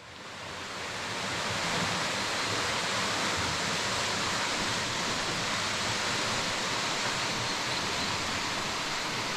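Steady rushing noise that fades in over the first second or two and then holds even.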